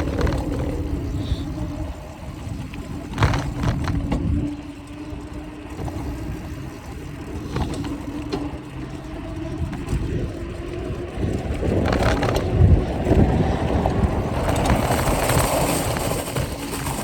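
Mountain bike riding noise: the bike rolling, with rattling and a few sharp knocks from the bike and its mounted phone, over a steady low hum.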